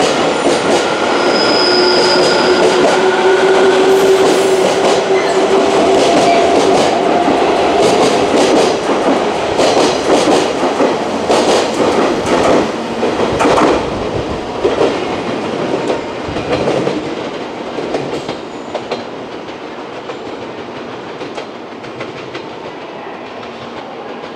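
Electric multiple-unit trains running through the station. The first several seconds carry a steady motor whine, then wheels clack over rail joints. The running noise of a JR Kyushu 813 series train follows and fades gradually toward the end.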